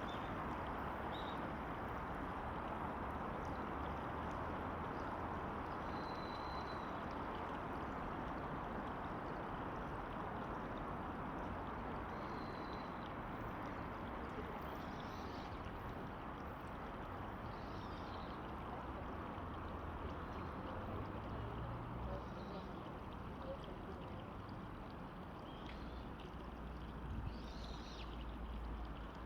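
River water rushing steadily, with a few faint, short bird calls scattered through it.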